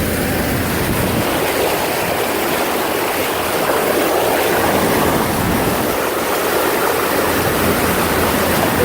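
Steady rush and splash of floodwater churned up by a large RV driving through it.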